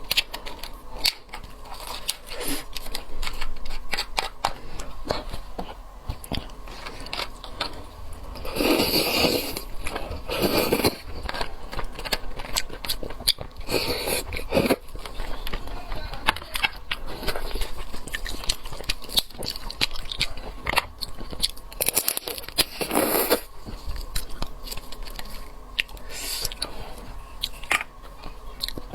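Close-miked eating of sauced seafood: wet chewing, lip smacks and many small mouth clicks, with a few longer, louder slurps spread through.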